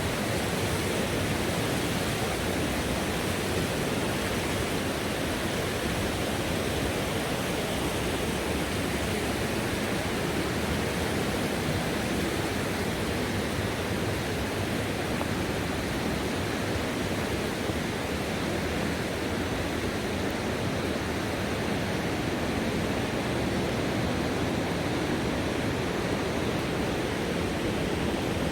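Steady rush of fast-flowing river whitewater, an even, constant noise with no breaks.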